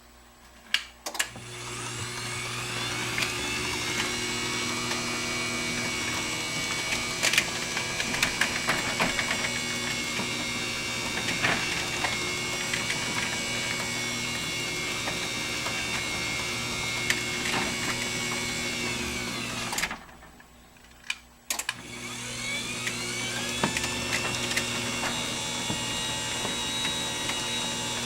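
Genie Chainmax 1000 garage door opener, converted to a side-mounted jackshaft drive, running on its highest speed setting. After a click, its motor winds up smoothly to a steady whine with scattered light ticks. It runs for about eighteen seconds, winds down and stops, then after another click starts up again and runs to the end.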